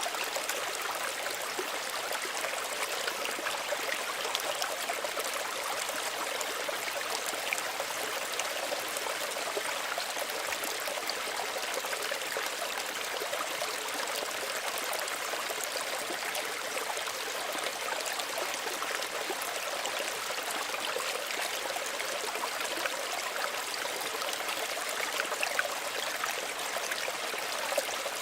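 Small stream of running water babbling and trickling steadily, with fine splashy flicker over an even rush.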